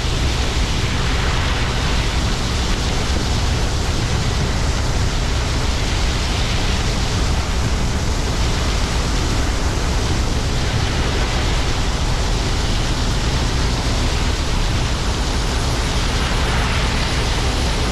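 Diesel farm machinery running steadily: a low engine drone under a loud, even rush of noise.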